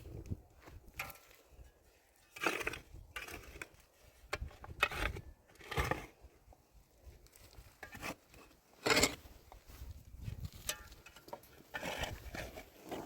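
Irregular scrapes and knocks of materials being handled, a few seconds apart, with the sharpest knock about nine seconds in.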